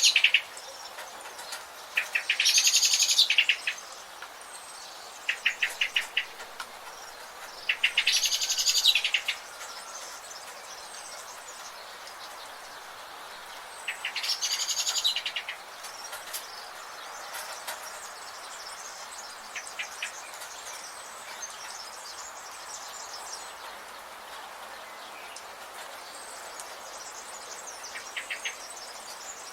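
Wild birds singing in a forest: a loud, rapid trilling song of about a second and a half comes three times, roughly every six seconds, in the first half, with shorter trills between. Later only short trills and faint high calls are left over a steady background hiss.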